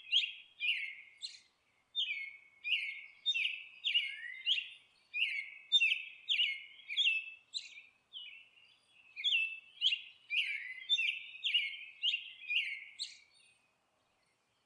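Small bird chirping: a long run of short, high, falling chirps, about two to three a second, with a couple of brief pauses. The chirping stops shortly before the end.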